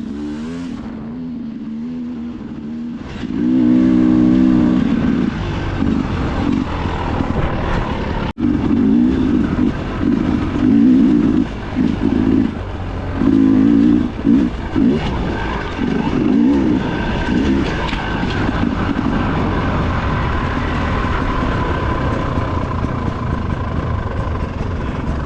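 Dirt bike engine heard from on board, repeatedly revving up and dropping back as the throttle is worked. There is a brief sudden break about eight seconds in.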